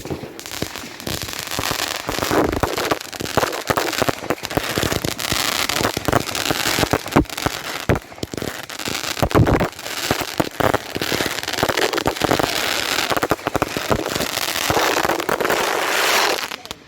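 Rapid-fire firework going off: a dense, continuous stream of sharp bangs and crackles, like machine-gun fire ('AK time'), that stops suddenly near the end.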